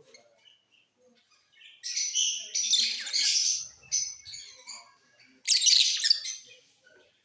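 Lovebirds chattering in harsh, high-pitched chirps and squawks: a run of calls from about two seconds in, then a second loud burst near six seconds.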